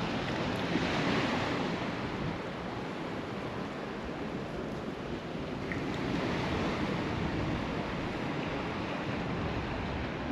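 Sea waves washing onto the beach, the surf swelling about a second in and again around six seconds, with a low rumble of wind on the microphone.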